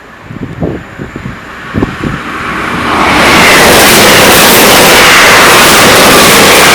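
Wind buffeting the microphone, then a train passing at speed: a loud rushing noise builds about three seconds in and stays loud.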